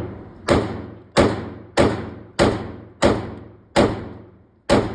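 Handgun fired in a steady string of seven shots, each about two-thirds of a second apart, each shot trailing off in a ringing echo before the next.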